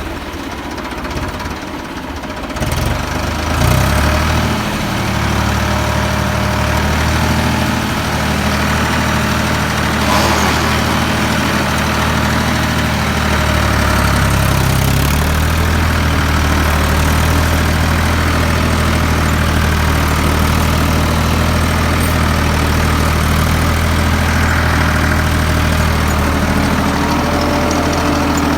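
Ford 3600 tractor's three-cylinder engine running. The revs pick up a few seconds in, then hold steady, with a slight change in pitch about halfway through.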